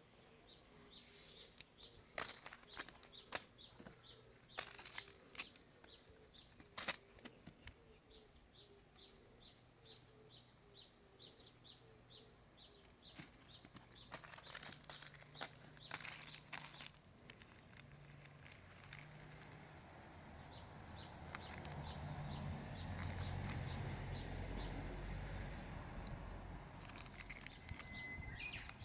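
Faint outdoor sound of a bird repeating short high chirps, several a second, in runs of a few seconds each. There are scattered light clicks and rustles in the first half, and a low rumble swells in the second half.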